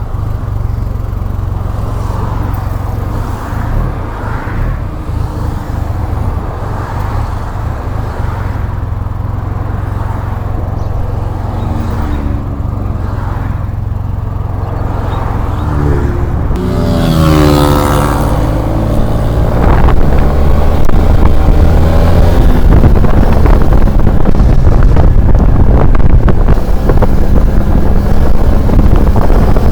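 SYM Maxsym TL 500 maxi-scooter's 465cc liquid-cooled twin-cylinder four-stroke running on the move, with wind rumbling on the microphone. A little past halfway the engine note climbs as it accelerates, and the sound stays louder after that.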